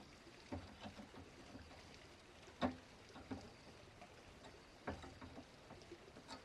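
Faint, irregular knocks and taps, the loudest about two and a half seconds in and another near five seconds, over a faint steady high tone.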